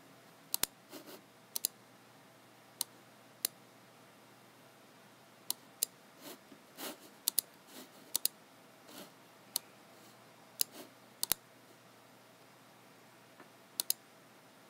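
Scattered, irregular clicks of a computer mouse and keyboard, several coming in quick pairs, with softer, duller taps in between. There is no steady typing rhythm.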